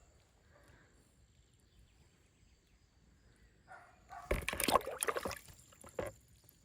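Water splashing and sloshing in a cluster of loud bursts starting about four seconds in and lasting about two seconds. A faint steady high insect drone is heard throughout.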